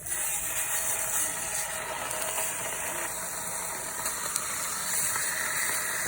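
Food sizzling in a hot pan: a steady hiss with faint crackles that starts suddenly.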